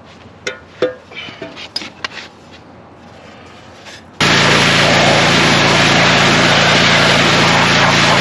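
Scattered knocks and rustling as packed hay debris is cleared out of a baler by hand. About four seconds in, a loud, steady engine noise starts abruptly.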